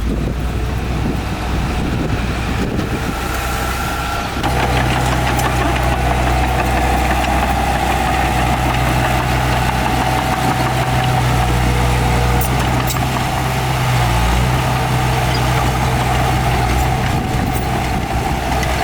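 Heavy diesel engine of earthmoving machinery running steadily, getting louder and working harder about four seconds in.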